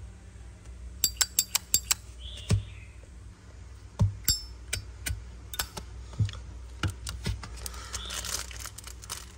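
Metal Zippo lighter cases being handled, giving sharp metallic clicks and clinks: a quick run of about five clicks about a second in, then scattered single clicks and knocks.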